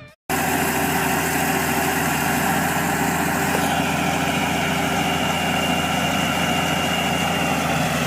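Heavy-equipment engine running steadily at idle, starting abruptly just after the beginning.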